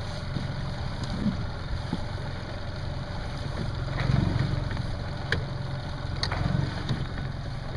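Tohatsu four-stroke outboard motor running at low, idle-zone speed, a steady low rumble pushing the boat slowly through shallow water. A couple of brief light clicks sound about five and six seconds in.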